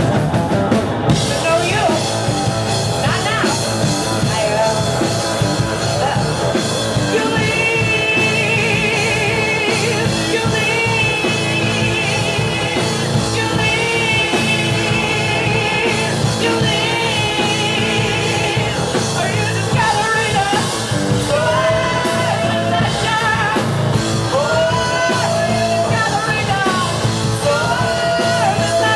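Live rock band playing, drum kit and guitar under a wavering melody line that comes in about seven seconds in.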